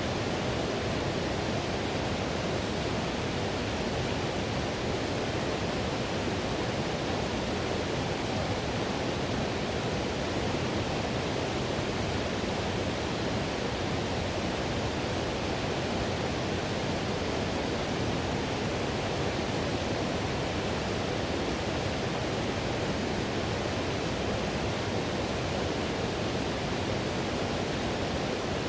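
Whitewater river rushing: a steady, even roar of fast water over rocks, with no breaks or changes.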